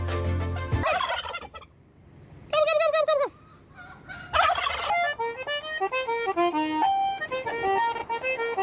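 A short, rapidly warbling animal call a few seconds in, with brief sliding sounds before and after it, then a melody of stepping notes toward the end.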